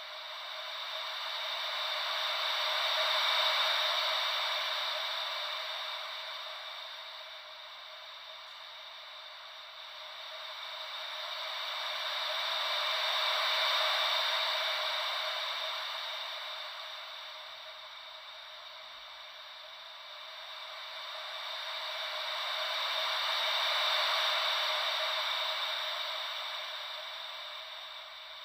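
Ocean-wave white noise: a soft, bass-free hiss that swells and fades slowly like waves washing in, about once every ten seconds, three times over.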